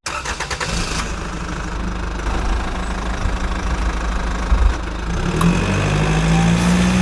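Truck engine running with a steady low rumble, revving up slightly from about five and a half seconds in.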